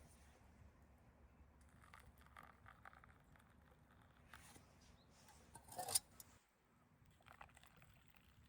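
Near silence broken by faint rustling, then one brief louder scrape about six seconds in.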